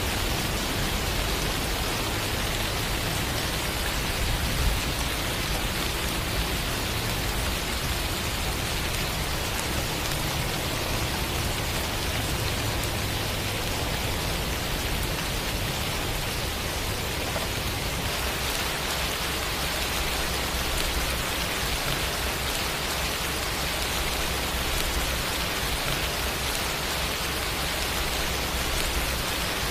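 Steady rain falling on surfaces, an even hiss with a low rumble underneath and no breaks. The low part of the sound changes slightly about 18 seconds in.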